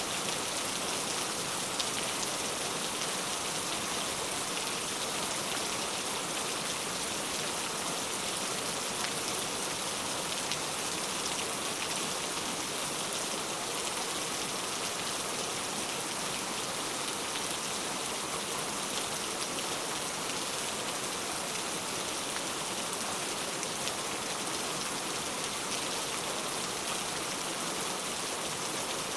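Steady rain falling, an even hiss with fine drop patter hitting a surface.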